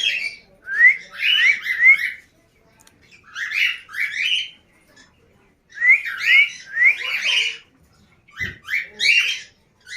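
Baby cockatiel calling: short, rising, raspy chirps in bunches of two to four, with short pauses between the bunches.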